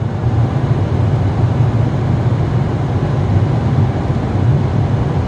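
Steady low rumble inside a moving car's cabin: road and engine noise while driving, unbroken throughout.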